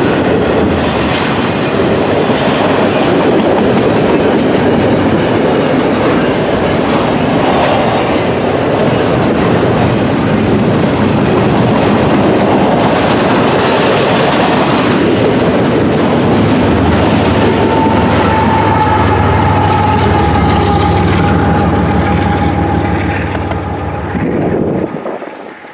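Double-stack intermodal well cars rolling past close by, a loud steady rumble of wheels with clickety-clack over the rail joints. Over the last cars a thin steady squeal rises above it, and the sound drops away suddenly as the end of the train passes.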